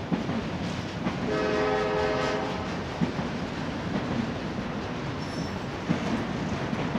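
Autorack freight cars rolling past with a steady rumble of wheels on rail and a few sharp clanks. About a second in, a train horn sounds once for just over a second.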